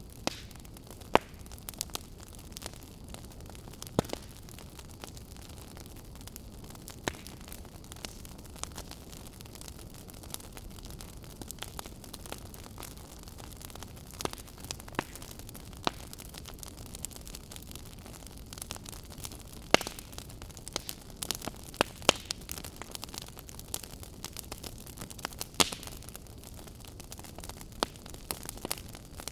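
Burning firewood crackling: irregular sharp pops and snaps over a steady low hiss of the flames.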